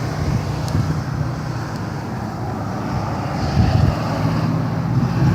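Steady low rumble of a car on the road: engine and road noise.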